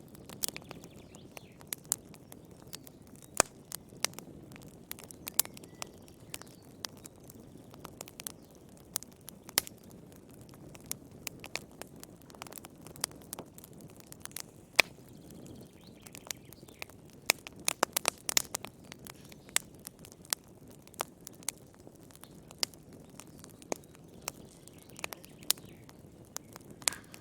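Wood fire crackling in a fireplace: irregular sharp pops and snaps over a low, steady rush of burning. The pops come thicker a little past halfway.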